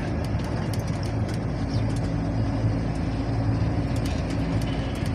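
MAN diesel truck engine running steadily on the move, a low even hum, with a few faint clicks and rattles.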